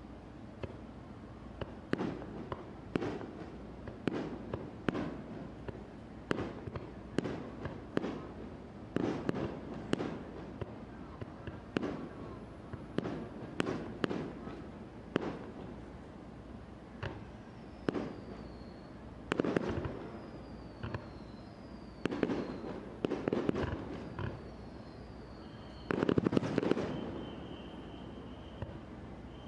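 Aerial firework shells bursting one after another, about one or two sharp bangs a second, each trailing off in an echo. A few short falling whistles sound in the second half, and the loudest cluster of bangs comes near the end.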